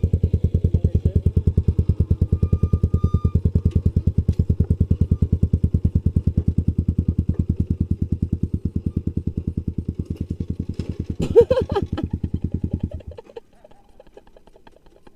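Trail motorcycle engine idling with a rapid, even beat that fades slightly and cuts off about 13 seconds in, as if switched off or stalled. A brief voice comes just before it stops.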